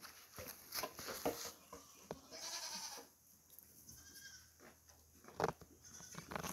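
Goats bleating: a high-pitched bleat about two and a half seconds in and a fainter one near four seconds, among scattered knocks and rustles.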